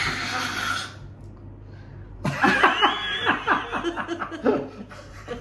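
A person laughing: a breathy burst of air at the start, then, about two seconds in, a run of chuckling laughter.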